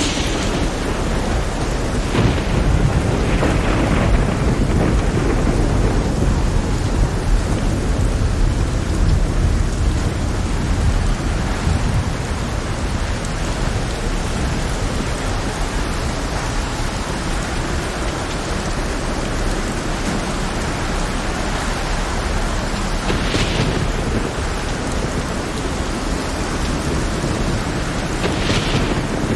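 Heavy, steady rain with a long low rumble of thunder through the first third. Brief louder hisses rise out of the rain right at the start and twice near the end.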